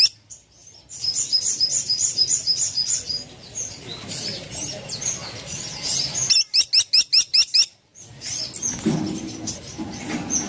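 Small woodpecker (caladi tikotok) calling in high, sharp notes: a fast run of short notes about a second in, then a loud burst of about seven quick sweeping notes about six seconds in. A fainter low rumble comes in near the end.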